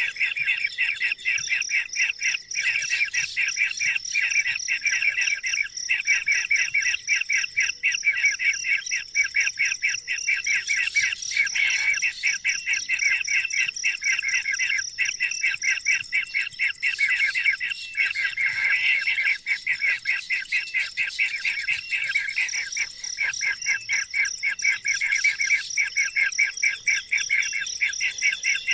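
Birds chirping in a fast, unbroken stream of short calls, with a steady high-pitched tone running underneath.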